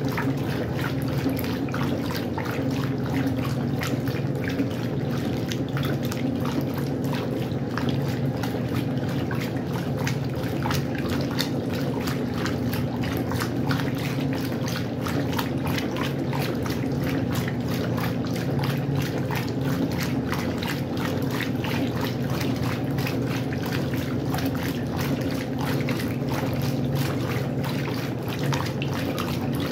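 Westinghouse washing machine running with water in the drum: a steady motor hum under constant splashing and trickling.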